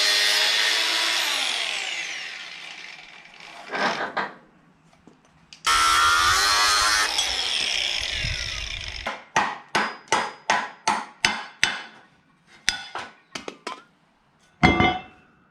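A power tool cutting off a fastener whose thread is too damaged to undo. It runs in two bursts that each start suddenly and then wind down with falling pitch. Then come a dozen or so quick, regular strokes, about two a second, and one sharp loud knock near the end.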